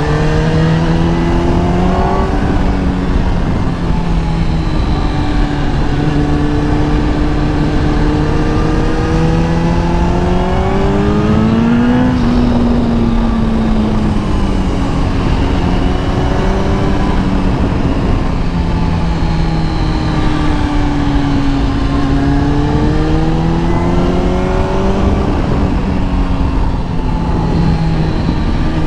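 Kawasaki ZX-10R inline-four engine under way, its pitch climbing as it pulls, dropping sharply at a gear change about two seconds in, falling back as it slows around the middle, then climbing again. Heavy wind rush over the microphone throughout.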